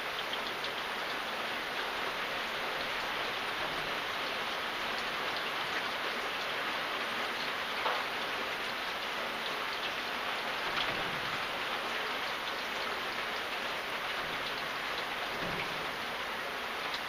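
Steady rain falling on a surface, an even hiss with scattered individual drops ticking through it and a slightly louder drop about eight seconds in.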